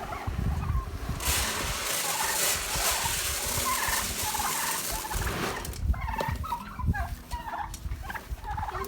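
A flock of domestic turkeys calling, many short repeated calls and gobbles overlapping, with a steady hiss between about one and five seconds in.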